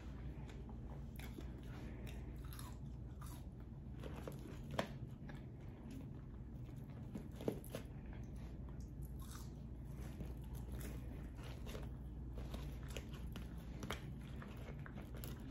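A person chewing and biting cheese-topped air-fried french fries: soft wet mouth clicks and light crunching, with two sharper crunches about five and seven and a half seconds in.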